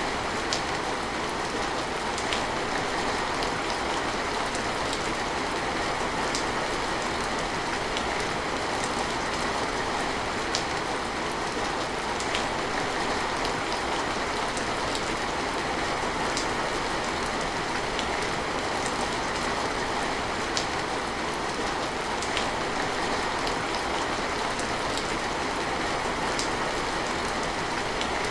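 Steady rain falling, an even hiss with scattered sharp drops ticking every second or two.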